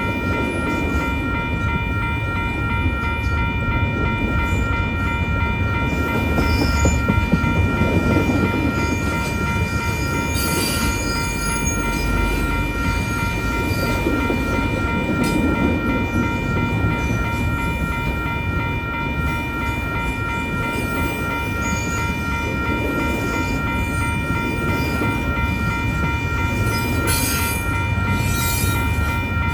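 Union Pacific intermodal freight train rolling through a grade crossing: a steady rumble of wheels on rail with a few sharp clanks. Steady tones from the crossing signal ring throughout.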